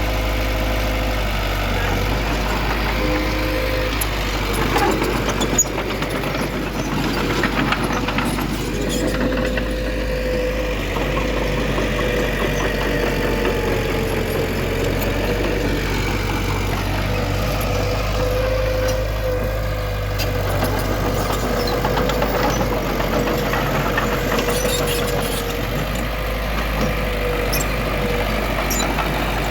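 Diesel engine of heavy earthmoving machinery running steadily, with a steady whine over the engine noise.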